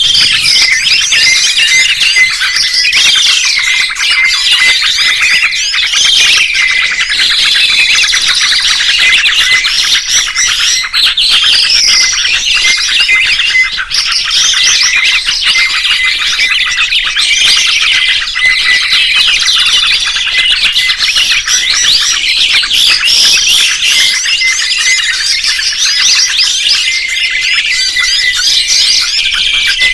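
Dense, continuous songbird chirping and twittering, many quick high notes and trills overlapping, with no pause. It is a tutor ('masteran') recording of the kind played to train caged songbirds.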